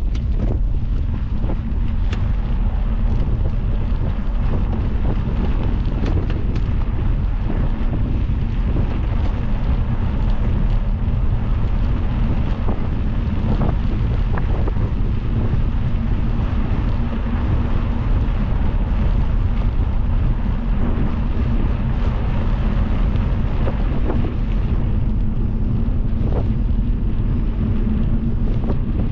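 Wind buffeting the microphone during a fast downhill ride, over a steady low rumble, with a few scattered knocks.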